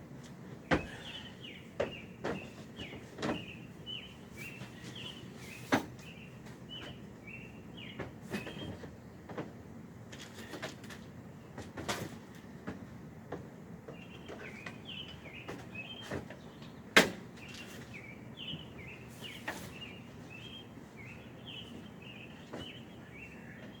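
Irregular knocks and thumps of camping gear being handled and loaded into a truck, with one sharp knock about two-thirds of the way through. A bird chirps over and over in the background.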